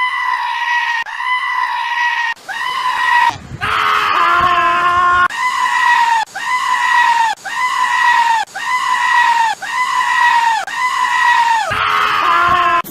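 A goat screaming over and over, a high, near-identical call about once a second. A second, lower bleat overlaps it about four seconds in and again near the end.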